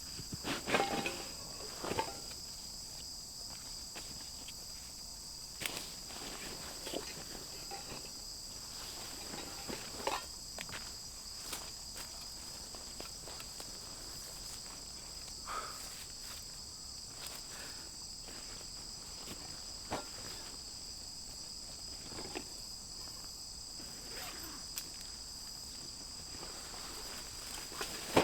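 Insects chirring steadily in two high, unbroken tones, with scattered light knocks and rustles over them.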